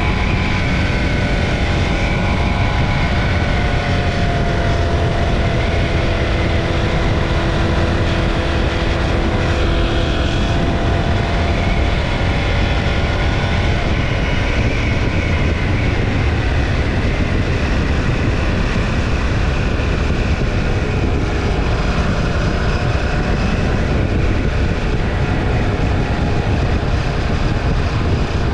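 KTM 790 Duke's parallel-twin engine running through a stock exhaust while riding, mixed with heavy wind and road noise. The engine note rises and falls in pitch through roughly the first half.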